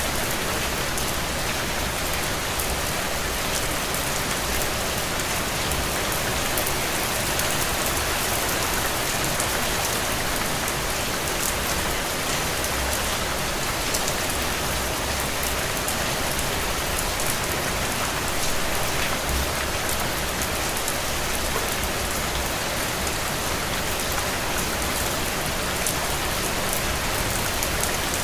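Steady rain with a dense patter of drops on a window.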